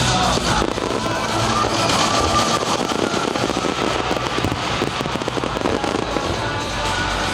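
Fireworks crackling and popping in quick, dense succession over loud music playing for the show.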